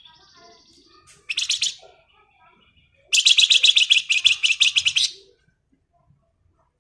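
Flamboyan songbird singing its ngebren song: soft twittering, a short rattling burst, then a loud rapid rattling trill of about two seconds, around eight pulses a second.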